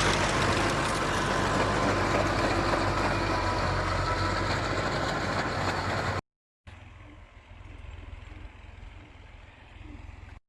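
Fiat 480 tractor's diesel engine running loud and steady, then after an abrupt cut about six seconds in, heard much quieter as a low steady drone.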